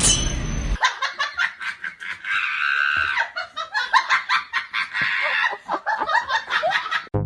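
Laughter in quick, repeated bursts after background music cuts off near the start.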